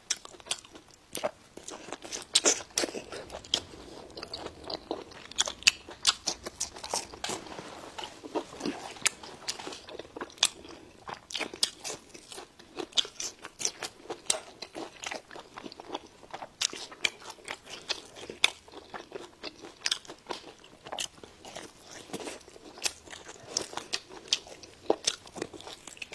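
Close-miked mouth sounds of a person biting and chewing crunchy food: irregular sharp crunches, several a second.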